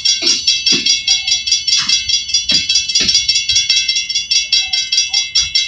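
Railroad crossing signal bell ringing in rapid, evenly spaced strikes, still sounding as the train clears the crossing.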